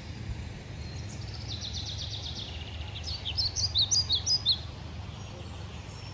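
A songbird singing: a fast trill of short high notes sliding down in pitch, then a louder burst of varied separate chirps, over a steady low rumble.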